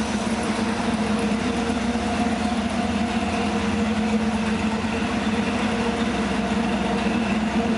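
A Ford 460 big-block V8 idling steadily in a 1960 Ford F-100 pickup.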